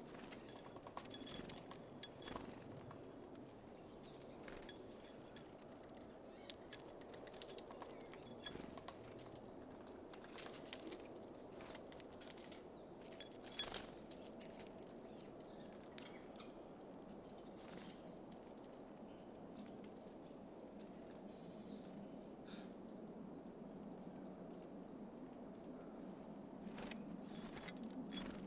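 Small wild birds at a feeder: scattered sharp taps and clicks of birds landing and pecking at seeds, with faint high-pitched chirps, over a steady low background hum.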